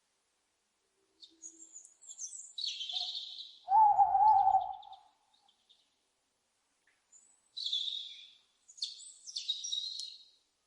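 Owl calls: one loud, wavering hoot about four seconds in, set between bursts of high, raspy screeching before and after it.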